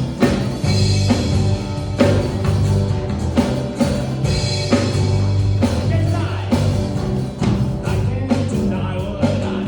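Live worship band playing a rock-style song with drum kit, bass and sustained instruments, with singing in places.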